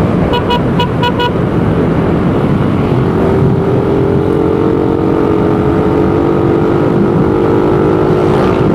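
Suzuki Raider 150 motorcycle on its stock exhaust being ridden, its single-cylinder four-stroke engine running at steady speed under heavy wind and road rumble. Four short beeps come in the first second or so, and from about three seconds in the engine settles into a steady held drone.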